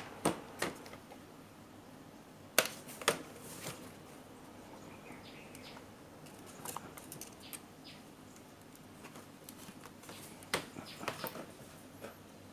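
Scattered sharp clicks and taps: two at the start, two more about three seconds in and a cluster near the end, with a few faint short chirps in between.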